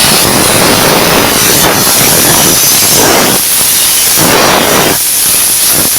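Air carbon arc gouging torch cutting into a weld: a loud, continuous hissing rush of compressed air and arc that surges unevenly.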